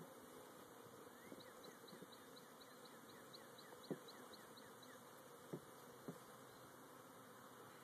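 Faint steady buzzing of a mass of Italian honeybees crowding an opened hive. A few brief knocks sound about halfway through, and a rapid run of short high chirps comes early on.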